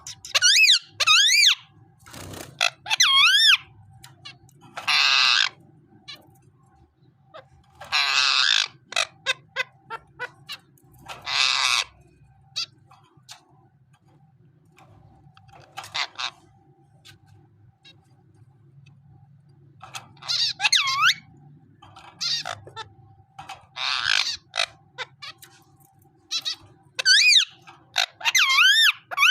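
Green parrot screeching in bouts: loud calls with a wavering pitch alternate with harsh, rasping squawks, separated by short pauses. The calls of an angry, agitated parrot.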